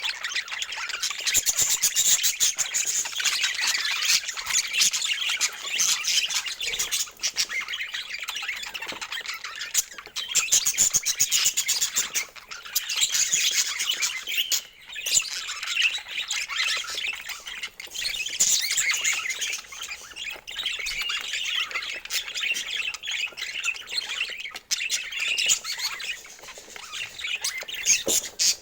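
Budgerigars chattering and warbling, a dense, unbroken stream of quick chirps and squawks.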